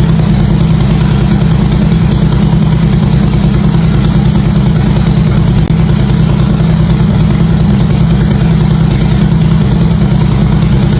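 Harley-Davidson V-twin motorcycle engine idling steadily through its exhaust, a loud, even low rumble with no revs.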